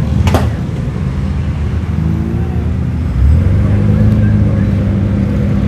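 Car engines running, with steady low engine tones. A short sharp click comes about a third of a second in, and about three seconds in a louder engine comes in and keeps running.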